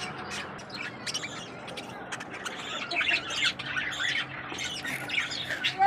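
Lovebirds chirping and squawking, a rapid run of short, high-pitched calls.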